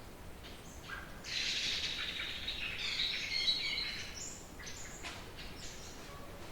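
Trade wind blowing in gusts: a louder rush builds about a second in and eases off after about four seconds.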